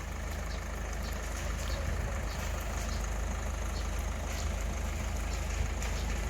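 A motor vehicle's engine running steadily with a low rumble, building slightly in the first second and then holding level.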